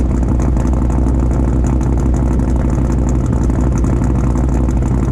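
V8 car engine idling steadily, with an even low rumble.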